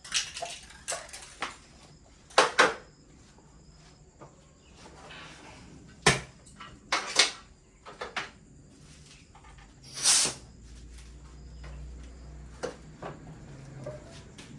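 Irregular clinks and knocks of metal tools and parts being handled during engine repair work, over a faint steady insect drone.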